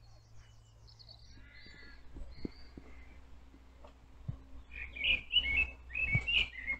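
Small songbirds chirping and singing, with brief high chirps at first and louder warbling song through the second half, over a steady low rumble.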